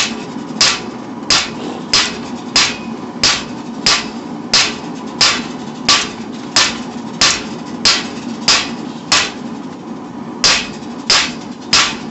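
Hand hammer striking hot steel on an anvil while forging a knife blank: steady, even blows about one and a half a second, each with a short metallic ring, with one brief pause about nine seconds in. A steady noise runs underneath.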